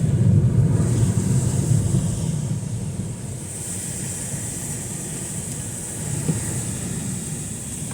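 Motor traffic passing on a wet street in heavy rain: a low vehicle rumble, loudest in the first couple of seconds and then easing off, over a steady high hiss.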